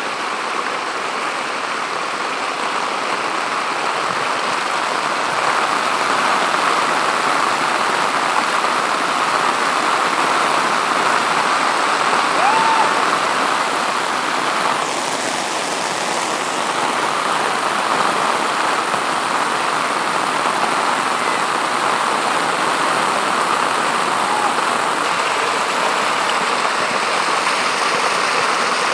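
Steady rush of heavy rain and flowing floodwater.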